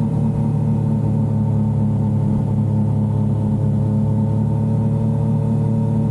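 Yamaha XSR900's inline-three engine running at a steady, unchanging pitch, with no revving or shifting.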